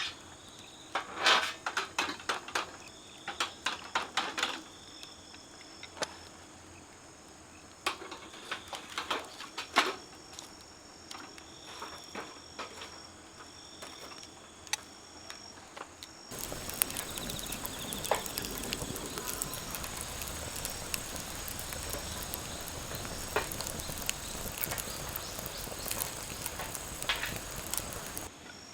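Wood fire crackling and popping in a fire pit. For the first half there are scattered sharp pops. About halfway through, the sound switches abruptly to a denser crackle over a steady hiss. A faint high insect trill sits in the background.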